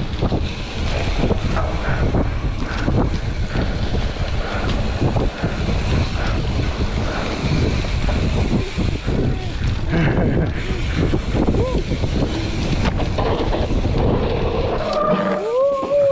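Mountain bike descending a rough, wet trail: wind rushes over the camera microphone and the bike rattles and knocks over the bumps without a break. A short whining tone with a gliding pitch comes in near the end.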